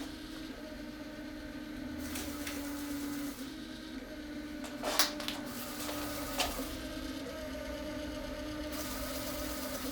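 Rowenta Explorer Serie 60 robot vacuum running: a steady motor hum whose pitch shifts slightly now and then. Two sharp clicks or knocks stand out, about five seconds in and again a second and a half later.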